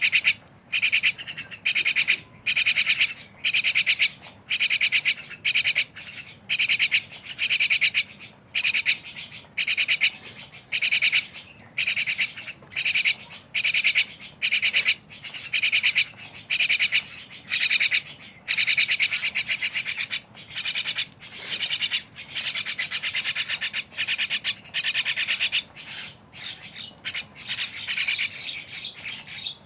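Jalak (starlings) calling over and over: harsh, buzzy, rasping calls, each a rapid rattle, following one another about once or twice a second without a break.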